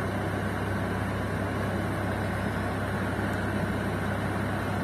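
Steady low hum with an even hiss from a running fan.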